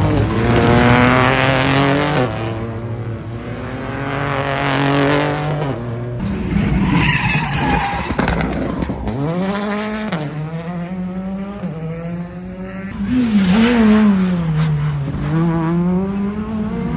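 Rally car engine revving hard on a circuit, its pitch climbing and dropping again and again through gear changes and lifts, with tyre squeal or skidding on the corners.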